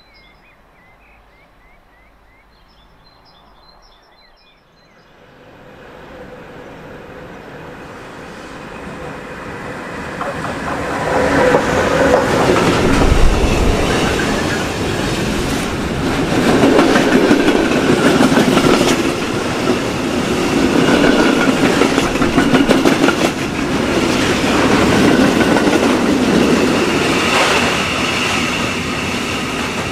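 Freight train approaching and then passing close by: a rumble builds from about five seconds in and turns loud from about eleven seconds, as the wheels of the tank and flat wagons clatter rhythmically over the rails.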